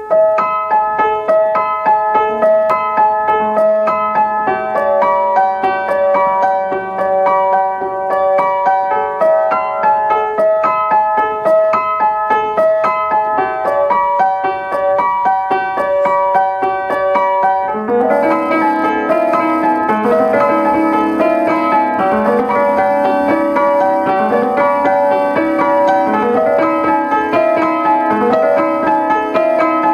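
Piano playing a melody of evenly paced notes in the middle range. About halfway through, lower notes come in and the playing grows fuller.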